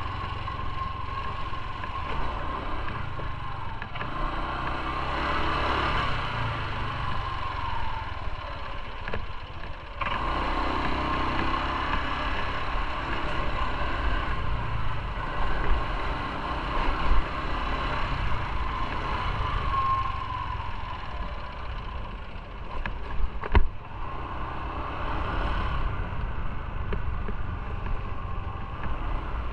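Motorcycle engine running while riding, with a steady low rumble and road noise, its pitch rising and easing a couple of times. A few short sharp clicks come near the end.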